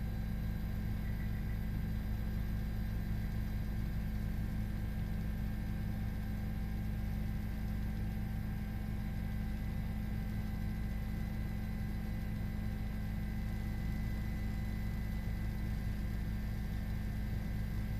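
Steady, unchanging low mechanical drone with a few faint steady tones above it, like an engine running.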